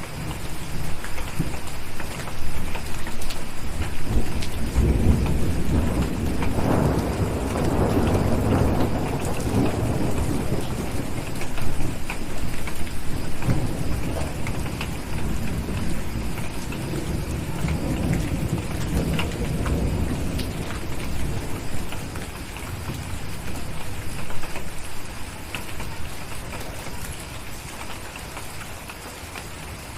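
Steady rain with a long roll of thunder that builds about four seconds in, is loudest over the next several seconds, then slowly rumbles away toward the end.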